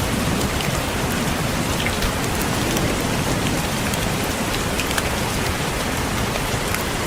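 Steady rain, with individual raindrops tapping on a window pane.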